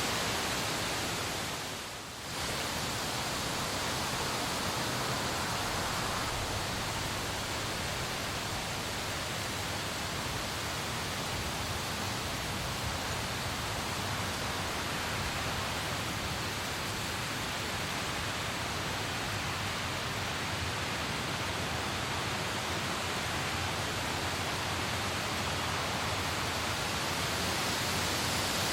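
Steady hiss of rain falling, even and unbroken, with a brief dip in level about two seconds in.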